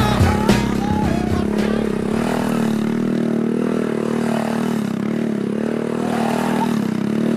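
A 1999 Honda Z50 pit bike's small four-stroke single-cylinder engine running, its pitch rising and falling several times with the throttle. Music fades out during the first two seconds.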